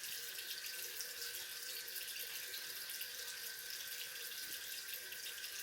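Bathroom sink faucet running, a steady stream of water into the basin.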